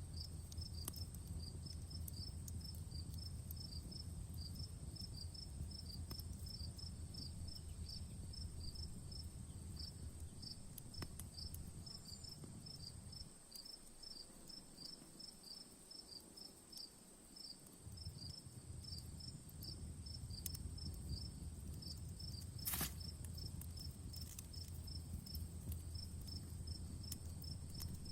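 Crickets chirping in a quick, even rhythm over a continuous high insect trill, with scattered pops and crackles of a campfire; one sharper pop comes about two-thirds of the way through. A low rumble underneath fades out for a few seconds in the middle, then returns.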